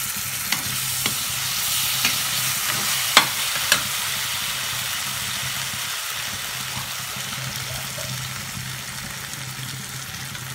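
Paneer cubes and capsicum sizzling in oil in a frying pan: a steady frying hiss over a low steady hum. A few sharp clicks come in the first four seconds, the loudest a little after three seconds.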